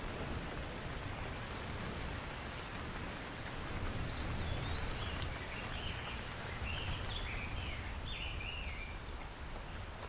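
Steady rain with a low rumble underneath, and a bird singing a run of short chirping notes from about four to nine seconds in.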